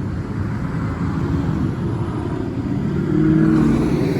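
Road traffic: a motor vehicle's engine running as it passes, a steady low rumble that grows louder about three seconds in.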